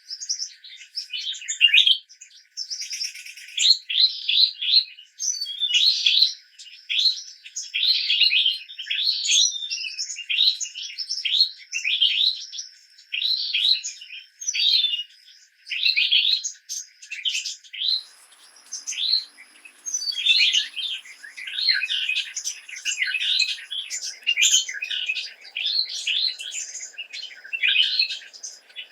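Birds chirping in a steady series of short, repeated calls, one or two a second, over a faint steady high tone.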